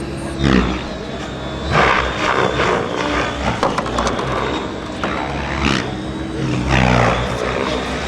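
Electric radio-controlled rotorcraft flying: a steady high motor whine over rotor noise that swells and fades every second or two.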